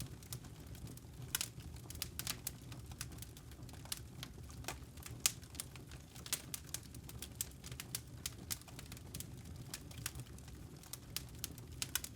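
Campfire of burning firewood crackling: irregular sharp snaps and pops over a low steady rumble.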